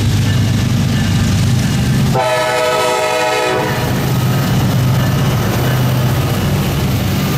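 Diesel freight or passenger locomotive passing close with a steady engine drone. About two seconds in it sounds its air horn in one blast lasting about a second and a half.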